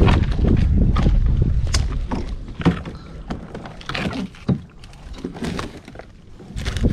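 Kayak on the water: splashing and irregular knocks against the hull. A low wind rumble on the microphone covers the first two seconds or so, then drops away.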